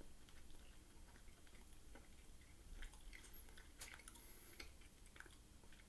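Faint close-up chewing of curry and rice, with a few soft, separate mouth clicks over a near-silent room.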